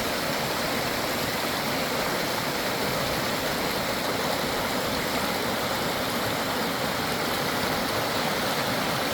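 Flowing water rushing steadily, an even unbroken rush with no change in level.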